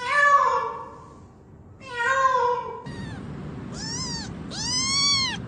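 Domestic cat meowing: two drawn-out meows that fall in pitch, then, over a louder background noise, shorter and higher meows that rise and fall, about one a second.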